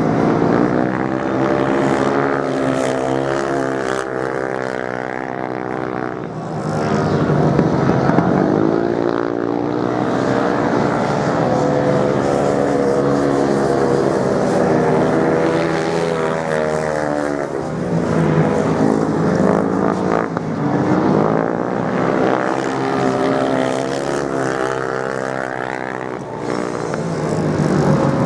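Racing motorcycle engines revving up and down as bikes go past, the pitch rising and falling in repeated swells with several engines overlapping.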